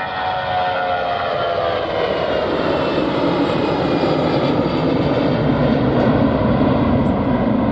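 Airliner passing close by: its engine whine slides down in pitch while the low roar grows louder.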